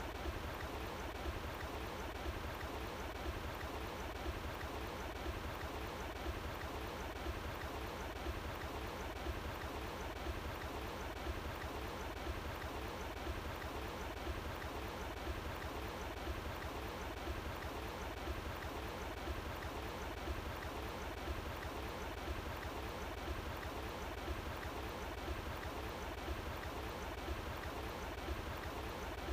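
Running water flowing steadily, with a deep rumble underneath and no change throughout.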